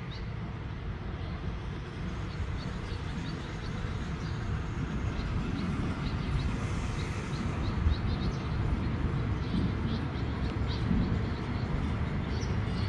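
Diesel train approaching along the platform track, a low rumble growing gradually louder, with birds chirping now and then.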